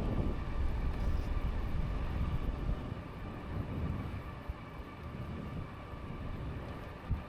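Riding noise from a Lankeleisi X2000 e-bike on a cycle path: wind buffeting the microphone and tyre rumble, heavier for the first few seconds, with a faint steady whine from the electric motor.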